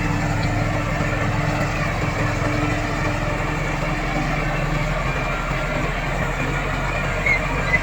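Heavy earth-moving machine's diesel engine running steadily at a constant pace, with a few short high chirps near the end.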